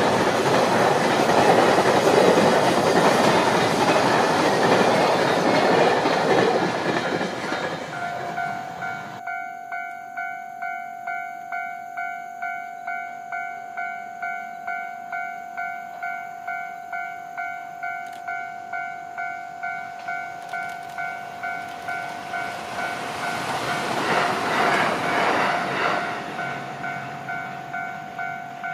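A passing train runs loudly with wheel clatter for the first seven seconds or so, then fades. A railway level-crossing alarm then rings in even electronic pulses, about twice a second, to the end. Near the three-quarter mark a second, quieter swell of train noise rises and falls under it.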